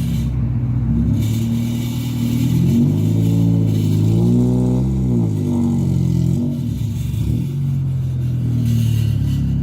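Honda Del Sol running on an aftermarket eBay exhaust, a loud steady drone that the owner finds far too loud for a muffler. About three seconds in, the engine note climbs, peaks and falls back within about two seconds, then holds steady again.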